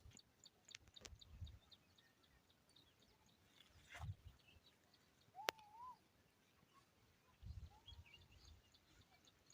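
Faint outdoor bird calls: a rapid run of short high chirps, and a short wavering whistle about five and a half seconds in. A few low bumps also sound, the loudest about a second, four seconds and seven and a half seconds in.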